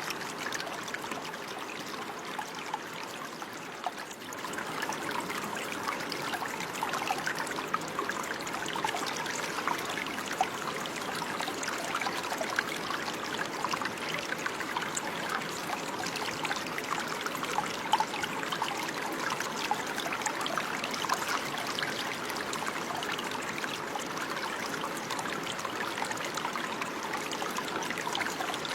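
Water running and trickling steadily, with many small splashes and gurgles throughout, like a small stream flowing over stones.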